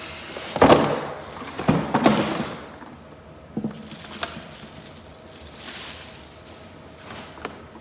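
Plastic machine parts and packaging being handled: a few sharp knocks and clatters about a second and two seconds in, then lighter clicks and some rustling.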